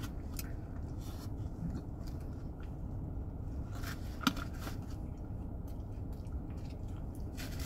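Chewing and mouth sounds of eating a Big Mac, with a few small clicks and one sharper tap about four seconds in as the burger and its cardboard box are handled, over a steady low rumble.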